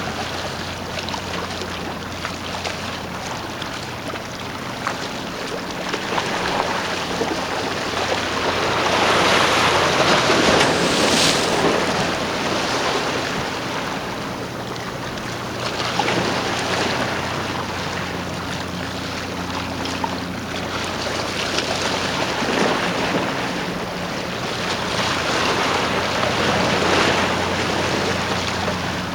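Water washing and surging, swelling twice (around ten seconds in and near the end), over a steady low hum from a boat's engine, with wind on the microphone.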